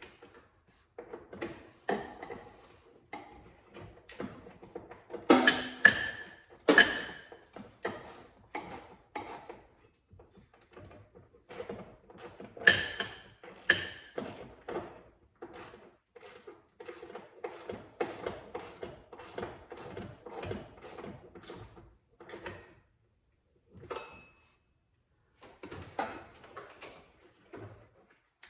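Hand tools and small metal parts clicking, clinking and knocking at an irregular pace while screws are driven back into a car's blower motor housing, with several louder clanks among them.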